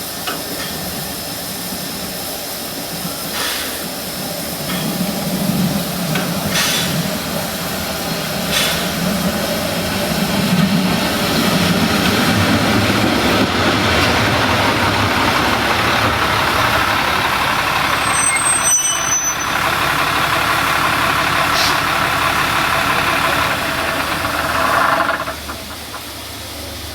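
Narrow-gauge steam train running, a steady loud mechanical rumble and hiss with low rhythmic pulses and scattered clanks. It grows louder from about four seconds in and drops off sharply near the end.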